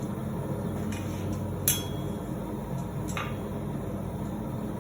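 Hammer striking hot steel on the horn of an anvil, bending it: one sharp blow a little over a third of the way in and a lighter one later, over a steady low hum.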